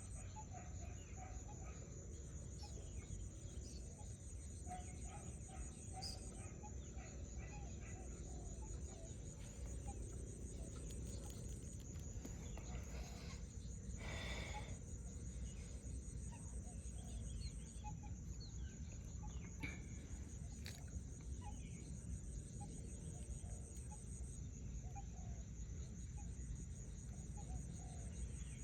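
Scattered bird calls, with one louder call about fourteen seconds in, over a steady high-pitched hiss and a low rumble.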